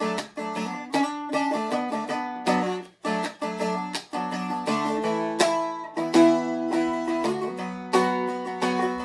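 Seagull Merlin M4 four-string strumstick strummed in rhythm through the song's chorus chord changes, with a brief break about three seconds in.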